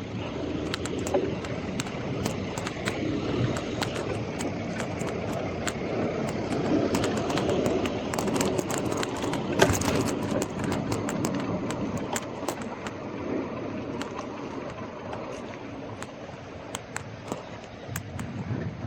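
Scott Scale Gravel 10 gravel bike rolling along a street: steady tyre and road noise with frequent sharp clicks and rattles from the bike. The noise swells for a few seconds around the middle, then eases.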